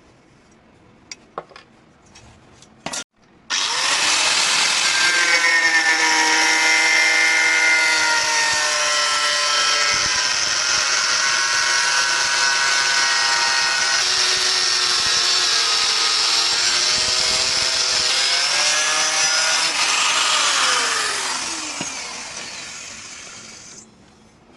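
Electric power tool running loud and steady on the bearing steel, its pitch wavering under load, after a few light clicks at the start. Shortly after twenty seconds it is switched off and winds down, its pitch falling as it fades.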